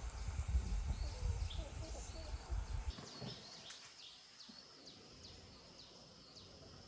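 Small birds chirping with short, high repeated calls, a few a second. A low rumble runs under them for about the first three seconds and then cuts off suddenly.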